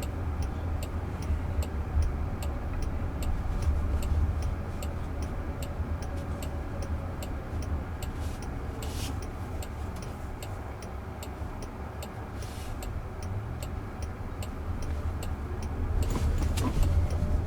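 A car's turn-signal indicator ticking steadily, about twice a second, over the low road rumble heard inside the cabin.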